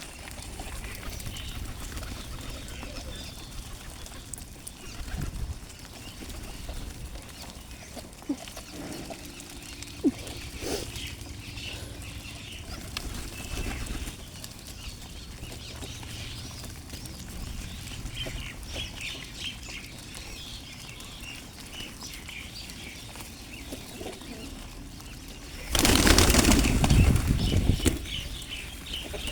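Flock of pigeons at a feeding spot, with scattered faint chirps, then a loud rush of flapping wings for a couple of seconds near the end as the birds take off together.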